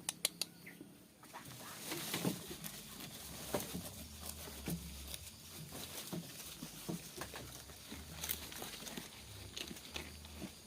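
Scattered light knocks and taps from livestock in a goat pen, with a quick run of sharp clicks in the first second and faint animal calls.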